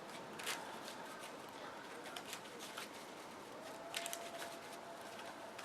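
Sleeved trading cards being handled at a table during a deck search: two short card snaps or slaps, about half a second in and about four seconds in, with quiet shuffling in between.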